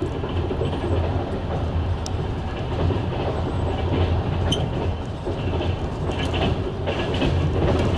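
Passenger train running on the rails, heard from a carriage window: a steady low rumble with scattered clicks of the wheels over rail joints and points, and brief higher metallic squeaks in the second half.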